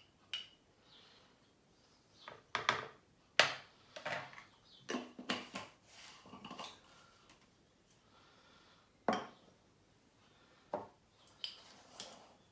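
Teaspoon clinking and tapping against a mixing bowl and spice container as spice is measured out: a dozen or so irregular short clinks and knocks, the sharpest about three and a half seconds in and another about nine seconds in.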